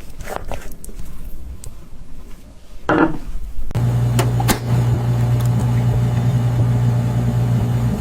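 Scattered light taps and clicks, then about four seconds in a steady low motor hum sets in and holds.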